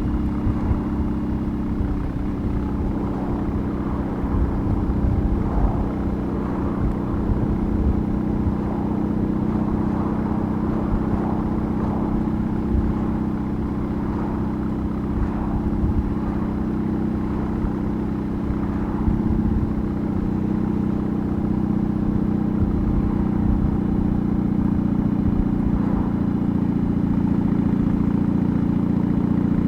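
BMW R18's big boxer-twin engine running under way at a steady pace, its exhaust note holding fairly even and growing a little louder toward the end.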